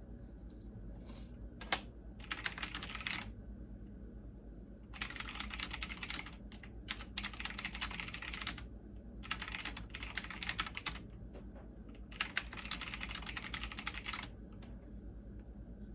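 Computer keyboard typing: rapid runs of keystrokes a second or two long, broken by short pauses.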